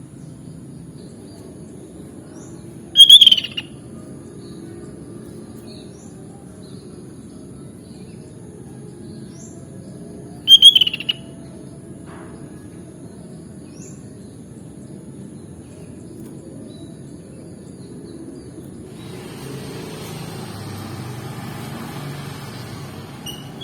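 Sooty-headed bulbul (kutilang) giving two short, loud calls about seven seconds apart, with faint scattered chirps in between. A steady low rumble underlies it, and a hiss swells near the end.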